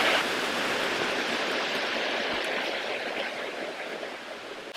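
Steady rush of running water from a creek, fading slightly toward the end.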